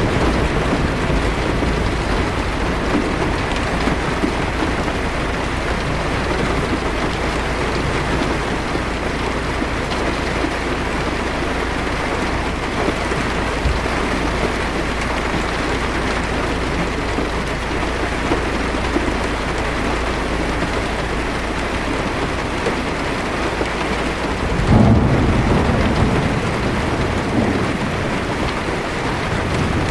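Heavy rain on a car's windshield, a steady hiss with a low rumble beneath it. About 25 seconds in, a roll of thunder swells and fades.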